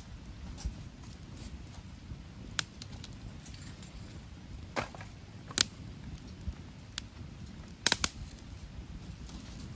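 Wood campfire crackling: scattered sharp pops, a close pair near the end, over a steady low background noise.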